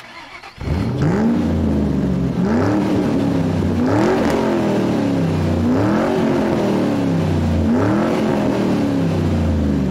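Car engine revved over and over: five rises in pitch, each easing back down, roughly two seconds apart, over a steady low rumble.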